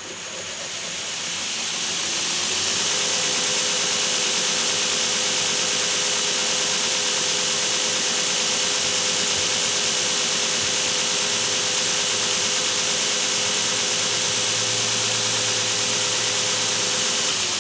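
Belt grinder coming up to speed, then running steadily with a loud hiss as its belt sands the small wooden hammer handle to even out the shoulder.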